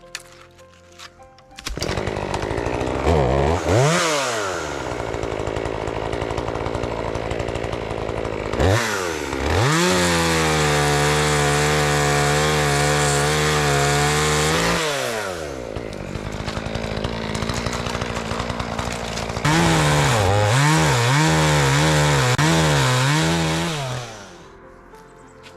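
Chainsaw being run while cutting up a fallen tree. The throttle opens sharply about two seconds in and the saw runs high and steady for several seconds. It drops back to a lower speed, then opens up again with its pitch wavering up and down, and shuts off near the end.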